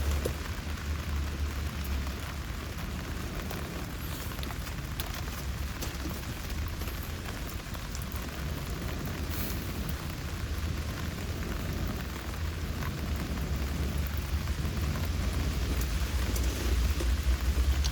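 Steady rain falling, a continuous hiss with scattered drops tapping, over a steady low rumble.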